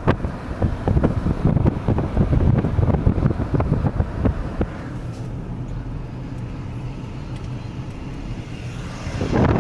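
Road and wind noise from a moving car, with wind buffeting the microphone in gusts. It eases about halfway through and picks up again near the end.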